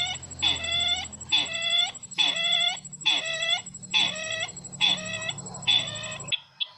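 Repeated call of the sisintar ladang bird, played as a lure call for bird trapping: the same short, rich note comes about once a second, seven times, then stops abruptly about six seconds in. A faint steady high whine runs beneath it.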